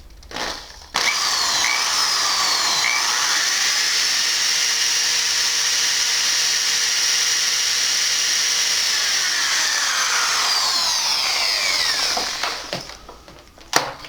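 Power drill with a 3 mm bit drilling through the metal of a padlock, finishing the hole. The whine starts suddenly about a second in, runs steadily, then winds down with falling pitch near the end, followed by a few small clicks.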